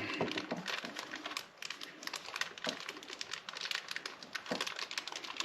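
Plastic packaging crinkling while small hardware parts are handled, giving an irregular run of light clicks and rustles.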